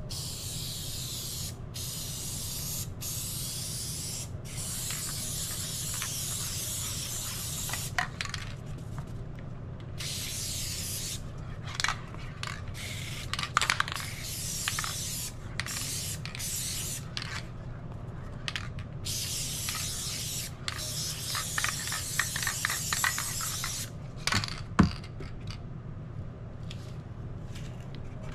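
Aerosol spray can hissing in long bursts with brief pauses, most likely spray adhesive going on for the foam flooring. Short scrapes and clicks come in the middle, and there is a single sharp knock a few seconds before the end.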